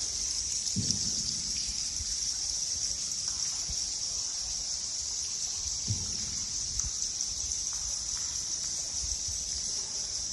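Steady high-pitched chatter of bats in a cave, with a low thud about every five seconds.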